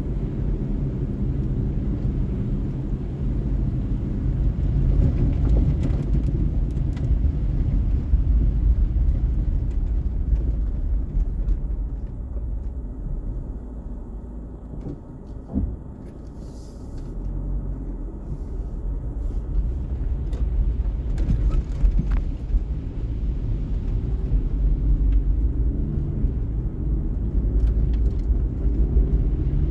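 A car on the move: steady low engine and road rumble that eases off for a few seconds about halfway through, then builds again.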